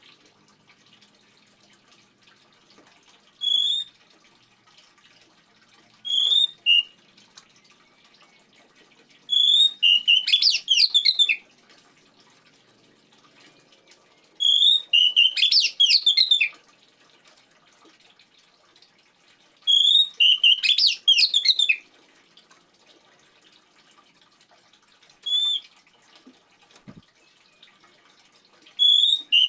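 Oriental magpie-robin (kacer) singing: four loud song phrases of about two seconds each, every one opening with a clear whistled note and breaking into a fast jumble of high notes, with single short whistles in between. Faint steady trickling water runs underneath.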